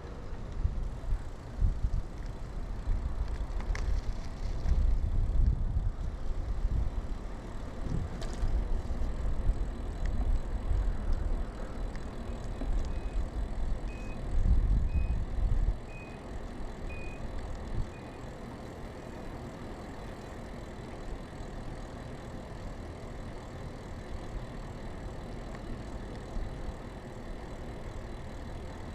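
Riding noise on a mountain bike: wind buffeting the chest-mounted camera's microphone in heavy low gusts that ease off about halfway, over steady tyre and road noise. Around the middle, a run of about nine short, evenly spaced high beeps, roughly one and a half a second.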